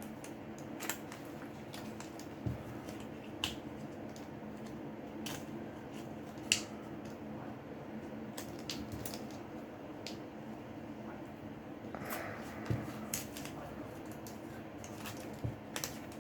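Scattered small clicks and cracks of screen adhesive giving way as the glued display of a Samsung Galaxy J6 is pried from its frame, the sharpest crack about six seconds in and a cluster near the end, over a faint steady hum.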